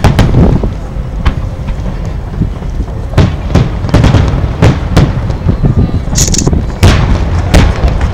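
Aerial firework shells bursting in a quick series of booms, about a dozen in eight seconds, over a constant low rumble. A short high hiss comes about six seconds in.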